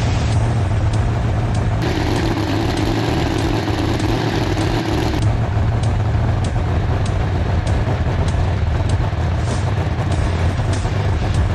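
Supercharged Hemi V8 drag-car engine idling with a steady low rumble. About two seconds in, a hissing rush joins it for some three seconds.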